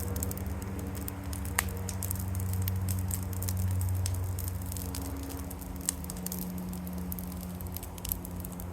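Brush burn pile of blackberry vines and branches burning with a steady rush, broken by a few sharp pops.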